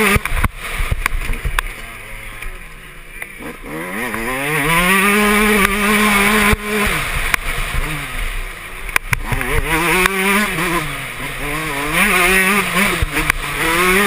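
Yamaha YZ125 two-stroke motocross engine heard from an onboard camera, revving up, holding high revs, then dropping off as the throttle shuts, several times over. A few sharp knocks are also heard.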